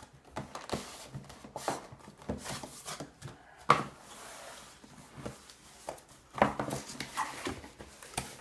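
Cardboard product box and its packaging being handled and opened: scattered knocks, taps and rustling. There is a sharp knock a little under four seconds in, followed by about a second of sliding, scraping rustle.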